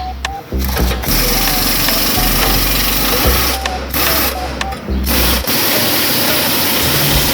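A rapid-stroking power tool running in several bursts with short pauses between them.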